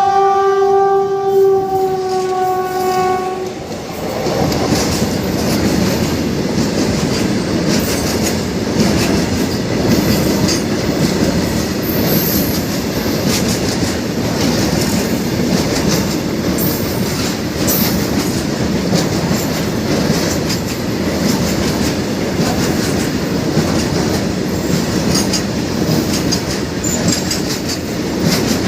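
Indian Railways WAG-7 electric locomotive sounding its horn once for about three seconds, slightly falling in pitch. Then a loaded freight train of BTPN oil tank wagons rumbles and clatters steadily past on the rails.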